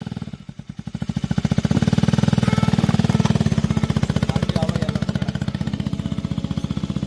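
A KTM RC200's single-cylinder engine idling through its exhaust, a rapid even pulse. It is quieter for the first second, then rises and holds steady.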